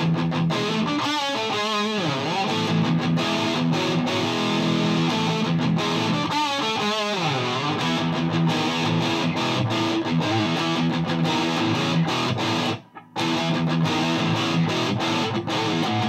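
High-gain distorted electric guitar, a Gibson Les Paul through a Mesa Boogie Dual Rectifier tube amp on its second channel (diode rectification, full power) into a Marshall 1960A 4x12 cabinet, playing chords and riffs. Notes are bent with wide vibrato about a second in and again around six seconds. The playing breaks off briefly near thirteen seconds.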